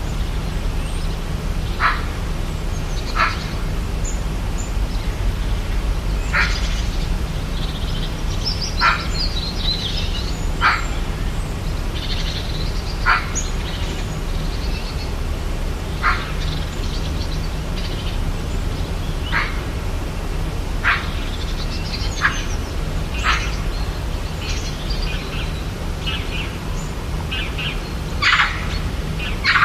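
Rainforest ambience: short sharp animal calls repeating every one to three seconds, with scattered higher bird chirps between them, over a steady low rumble. The calls come closer together near the end.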